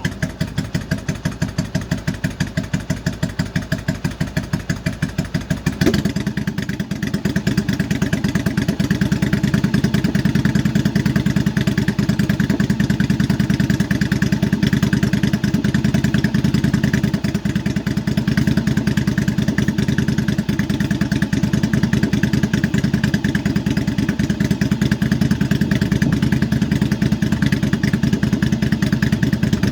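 2005 Yamaha V-Star 1100 Classic's air-cooled V-twin idling on choke just after its first cold start of the year. About six seconds in the sound changes abruptly and the engine runs louder and steadier. The owner finds the choke has been nearly useless since the carburettors were cleaned, rebuilt and jetted.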